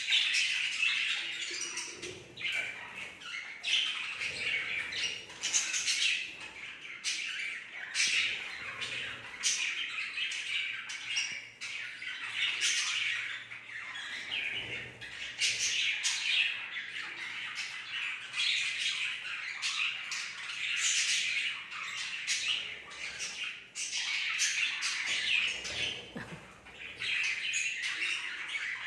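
Budgerigars chattering steadily, a dense run of chirps and warbles broken by many short, sharp squawks.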